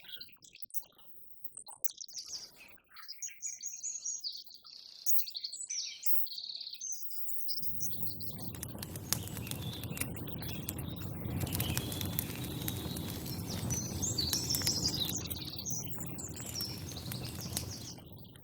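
Small birds chirping and calling. About seven seconds in, a louder, steady rushing noise with fine crackling clicks sets in over them and stops near the end.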